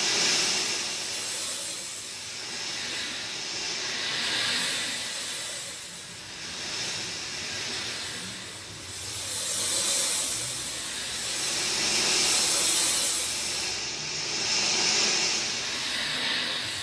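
Steady rainfall, a continuous hiss that swells and eases every few seconds.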